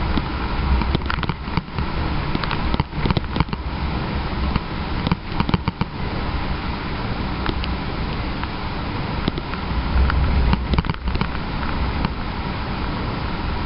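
Road and engine noise of a moving truck heard from inside the cab, a steady rumble with clusters of sharp clicks and knocks about one to six seconds in and again around eleven seconds.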